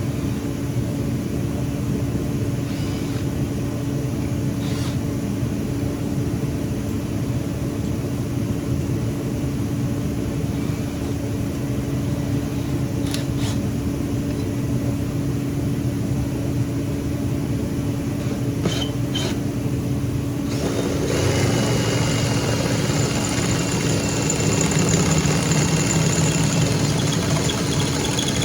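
An electric drill motor runs steadily with a constant hum. About 21 seconds in, the sound grows louder and coarser, with a high thin whine, as the bit cuts into the metal.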